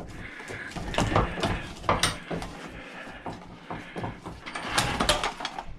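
Irregular knocks and clanks of metal parts from an old battery charger being handled and moved around during its teardown.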